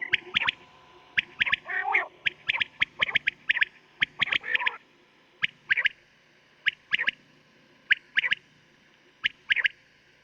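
Quail (batair) calling in short, sharp notes. Dense clusters of calls fill the first half, then they thin out to pairs of notes every second or so. This is a recorded quail call of the kind played to lure quail when hunting.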